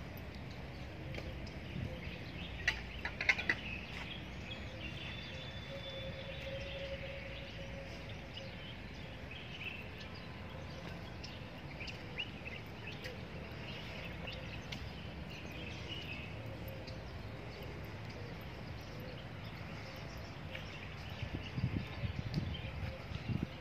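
Outdoor garden ambience: small birds chirping on and off over a steady low background rumble. There are a few sharp clicks about three seconds in and some low bumps near the end.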